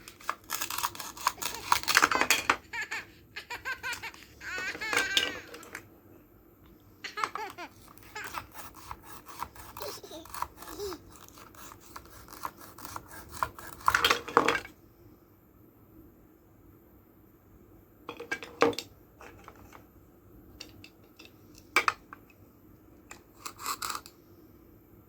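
Laughter with bursts of sharp clicks and scraping from plastic toy fruit being cut apart; the clicks thin out to a few isolated ones in the second half.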